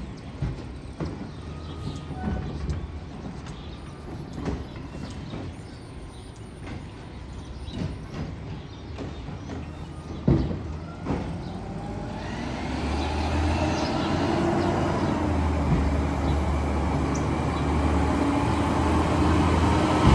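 Garbage truck engine coming closer, growing steadily louder over the second half, after a quieter stretch with scattered knocks, the sharpest about ten seconds in.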